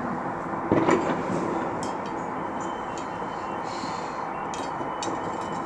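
Steady hum of city street traffic with one sharp firecracker bang just under a second in, followed by a few fainter pops.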